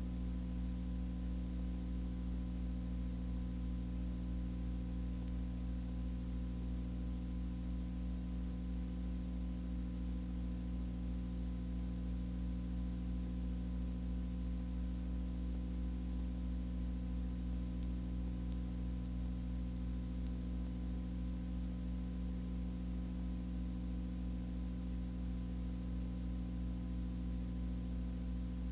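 Steady low hum with hiss, unchanging throughout.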